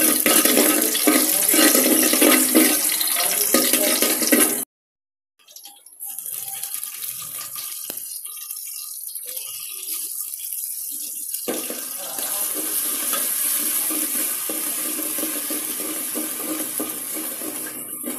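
Food frying in hot oil in a pot, a dense sizzling and bubbling. It cuts out briefly about four and a half seconds in, is quieter and sparser for several seconds, then sizzles loudly again.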